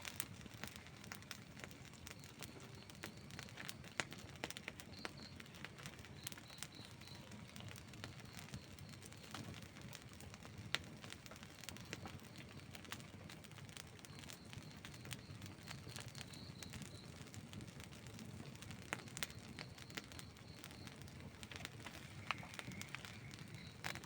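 Outdoor wood campfire burning, with irregular crackles and sharp pops over a soft steady rumble of the flames, and one louder pop about eleven seconds in.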